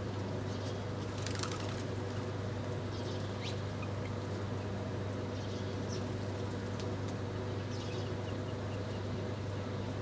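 Small birds giving a few short, scattered chirps over a steady low hum.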